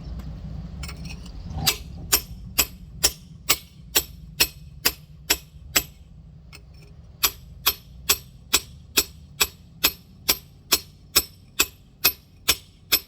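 Rock hammer tapping a giant geode in quick, even light strikes, about two or three a second, in two runs with a short pause near the middle, scoring along a line to split the stone open.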